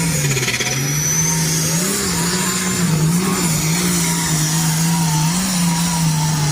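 Engine of a truck or tractor in a pulling competition running hard under load as it drags the weight sled down the track. Its pitch dips about half a second in, then wavers up and down.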